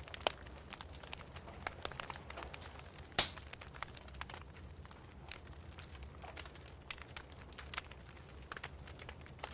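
Wood fire crackling in a fireplace: irregular small snaps and pops, with one louder pop about three seconds in, over a low steady hum.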